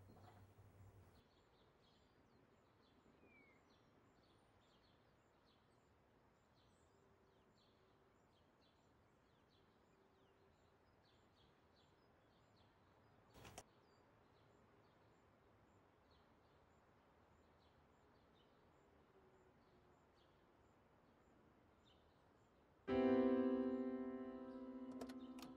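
Near silence with faint, evenly spaced high ticks and one sharp click about halfway through. About 23 seconds in, a loud piano chord comes in and rings on, and a second chord follows near the end.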